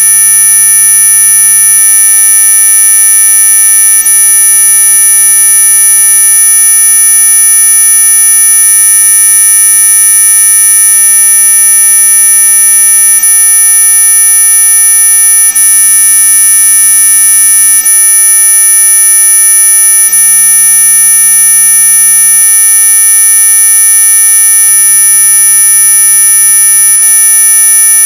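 Synthesized mosquito-repellent tone: a loud, steady electronic whine made of several high pitches layered together, brightest at the very top of hearing, with fainter lower hums under it. It holds unchanged throughout.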